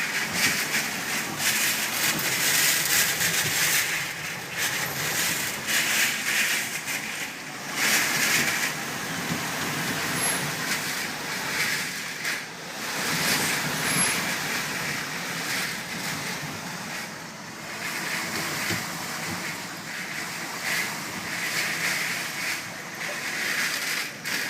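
Typhoon wind and driven rain, a dense rushing noise that surges and eases in gusts every few seconds.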